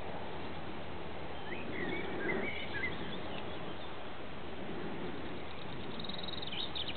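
Small birds singing: a few chirping calls about two seconds in and a fast trill near the end, over a steady hiss.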